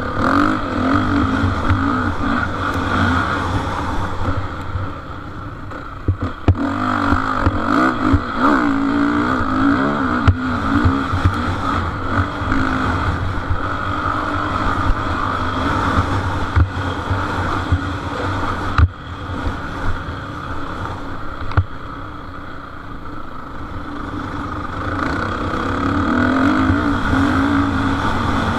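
Motocross bikes racing, their engines revving up and down as they run the track, over a steady drone from the rest of the field.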